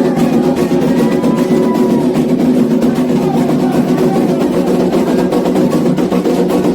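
Candomblé ritual drumming: atabaque hand drums playing a steady, dense rhythm for the xiré.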